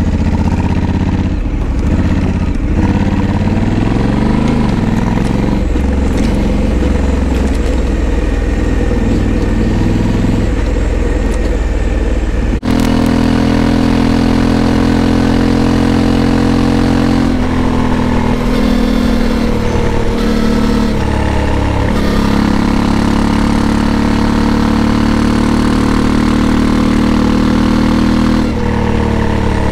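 Honda Africa Twin 1100's parallel-twin engine running, its revs rising and falling over a steady rush of noise. About twelve and a half seconds in the sound breaks off sharply. After that the engine holds steadier revs that shift in a few steps.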